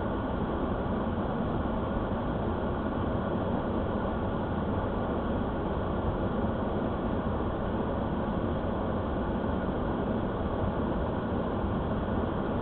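Steady, even road and engine noise, as heard from inside a moving vehicle.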